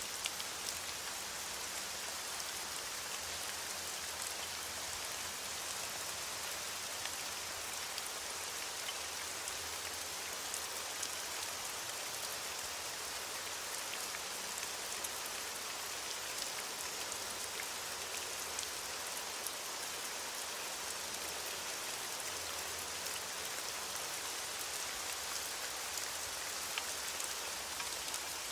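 Steady, heavy rain falling, a dense even hiss with scattered drop ticks.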